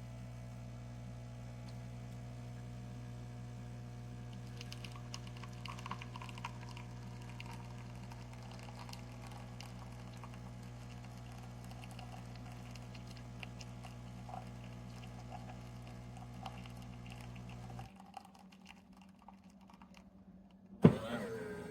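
Café Affetto automatic espresso machine running with a steady mechanical hum and small ticks while it brews. The hum cuts off about 18 seconds in. Near the end there is a sharp click and a motor starts up, dipping in pitch and then holding steady.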